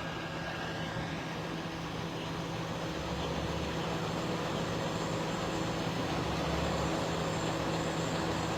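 Heavy truck engine running steadily with a low hum, slowly getting louder, as a flatbed hauler works to load a wrecked pickup truck onto its ramp.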